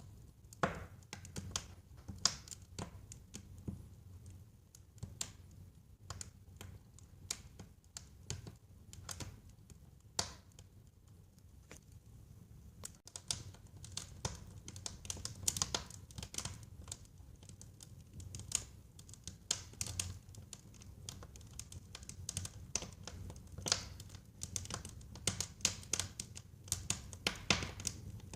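Wood fire burning in a fireplace, crackling with irregular sharp pops and snaps over a low rumble of flame; the crackling grows busier in the second half.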